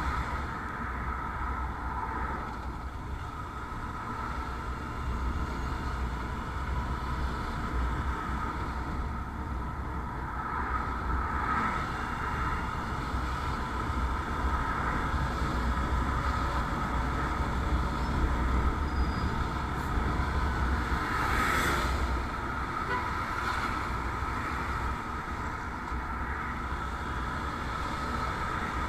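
Motorcycle on the move: steady engine and road noise with a heavy low rumble, and a brief louder swell a little after twenty seconds in.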